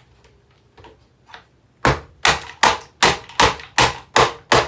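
A table fan being smashed: a fast, steady series of heavy blows, about two and a half a second, each a sharp crack with a short ringing decay. The blows begin a little under two seconds in, after a few faint ticks.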